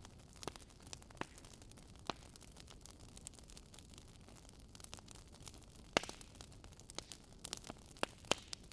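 Wood campfire burning with a low hiss and irregular crackles and pops, the sharpest pop about six seconds in and a couple more near the end.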